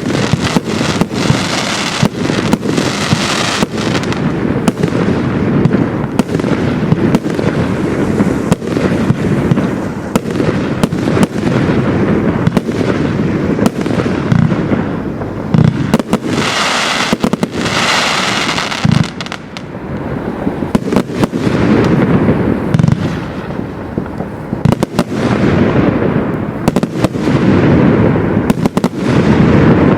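A 200-shot Absolute Fireworks 'Game Changer' firework cake firing in a rapid run of shots and bursts, several a second. Denser noisy stretches swell and fade between them.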